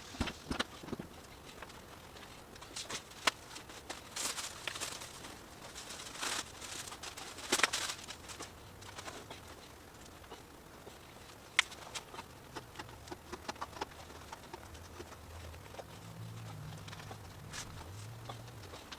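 Handling noise from hands at work: scattered light clicks and taps with short rustles, busiest for a few seconds early on and with one sharp click near the middle.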